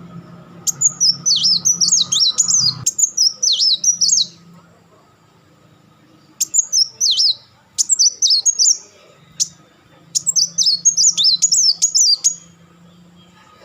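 Kolibri wulung sunbird singing: rapid, high, chattering runs of quick sliding notes in four bursts, the 'crecetan' and rapid-fire 'tembakan' phrases of its song.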